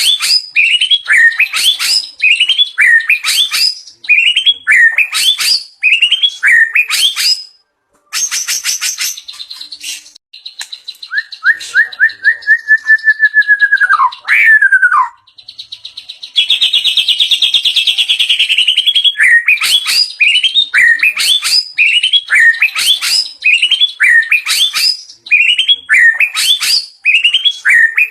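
White-rumped shama (murai batu) singing and running through mimicked phrases. Short rising-and-falling chirps repeat about twice a second, then a quick run of clicks, a long falling whistled phrase and a buzzy trill, before the chirps return.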